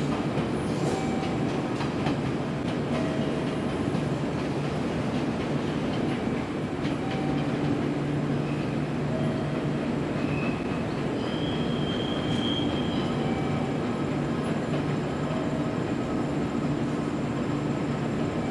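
A train running on the rails with a steady rumble, with short high wheel squeals now and then, the clearest about two-thirds of the way through.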